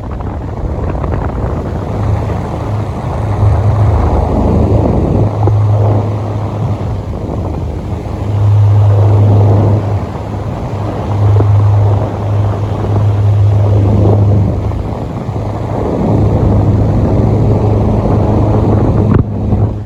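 Delta Gold 50 cm electric fan running, its airflow buffeting the microphone with a low hum that swells and fades in stretches of a few seconds. The noise cuts off suddenly just before the end.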